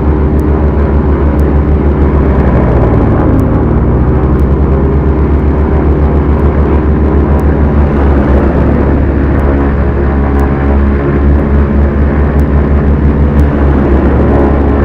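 Twin propeller engines of a Beechcraft Duchess light twin running steadily in a low, even drone, with a slow pulsing beat in the loudness.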